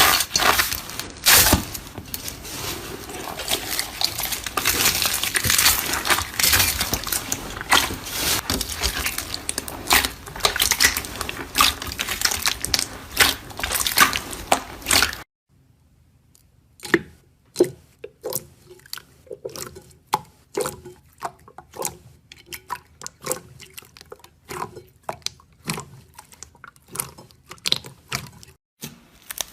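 Slime being worked by hand, with dense, continuous crackling and popping. About halfway through it breaks off suddenly and gives way to sparser, separate pops and clicks.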